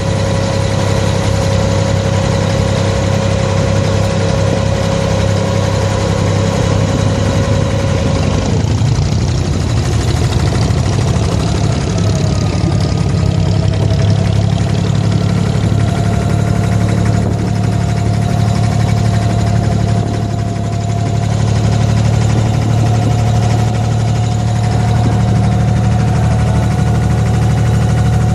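A boat's engine running steadily with a deep drone; its note changes about eight seconds in and settles into a slightly higher tone.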